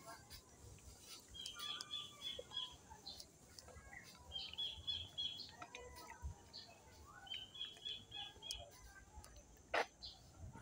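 A bird calling: short runs of five or six quick, high chirps, repeated every three seconds or so. A single sharp click sounds near the end.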